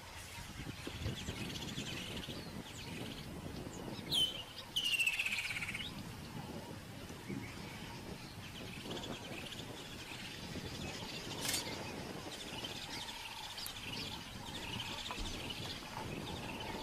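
Birds chirping and calling in the open bush, with one louder call that slides down in pitch for about two seconds, some four seconds in, over a low background rumble.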